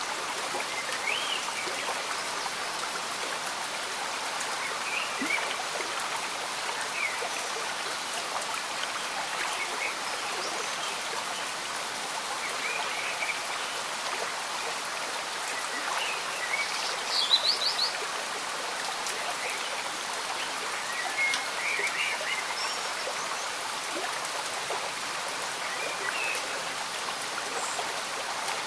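A slow-moving stream bubbles steadily under gentle rain. Short bird chirps are scattered through it, and a quick run of high chirps about two-thirds of the way through is the loudest moment.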